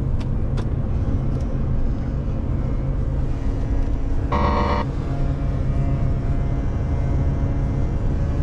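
Renault truck's engine and road noise rumbling steadily inside the cab. There are a few light clicks in the first second or so, and a short, high, buzzing squeak lasting about half a second around the middle: the strange noise the driver suspects is coming from the cab's plastic trim.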